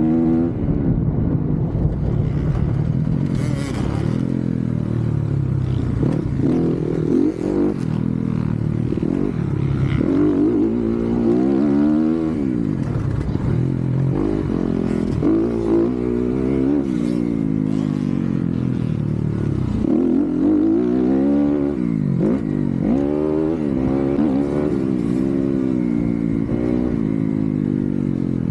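Motocross dirt bike engine running hard under racing throttle, its pitch climbing and dropping again and again as the rider accelerates, shifts and backs off through the track.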